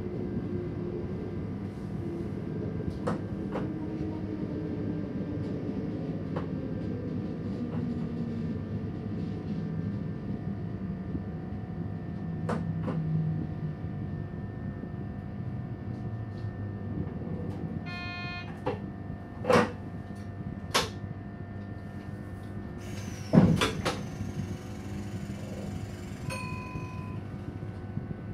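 Inside an electric train's driver's cab: running rumble with a motor whine falling in pitch as the train slows to a stop. After that come a short beep, a couple of sharp clicks, a loud clunk with a few seconds of hiss after it, and another brief beep: cab and door equipment working at the stop.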